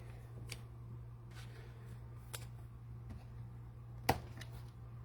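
Trading cards and their plastic packaging being handled at a desk: faint rustles and light clicks, with one sharper snap about four seconds in, over a steady low hum.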